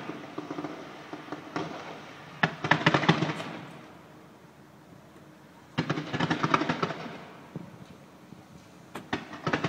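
Fireworks going off in three rapid volleys of many sharp cracks and bangs, a few seconds apart, with fainter scattered pops in between.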